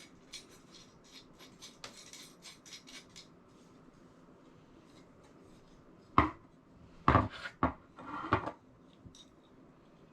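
Light clicking of small hardware as shuttle brackets and bolts are handled and fitted, then four louder knocks of the parts a few seconds later.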